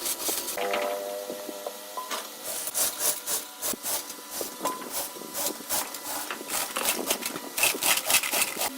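Wood being scraped or rasped in quick repeated strokes, a rough rubbing sound several times a second, over a faint machine hum.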